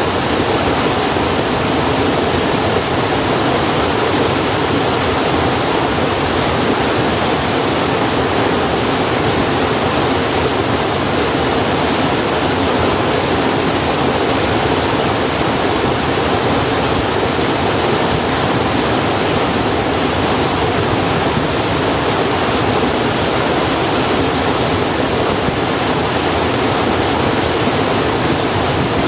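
Steady, even rushing of running water, loud and unchanging, with no separate crackles or knocks standing out.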